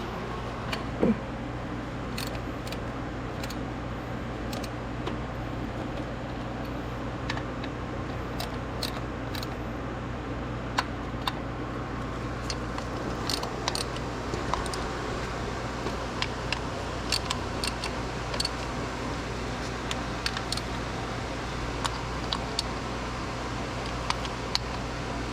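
Scattered light clicks and clinks of hand tools and small parts being handled, with one louder knock about a second in, over a steady low hum.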